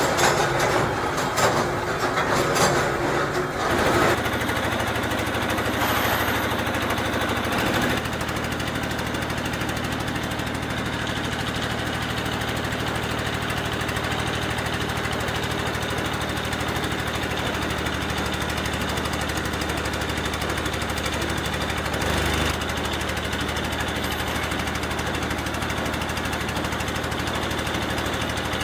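Factory machinery running: a few seconds of irregular clattering, then a steady low drone.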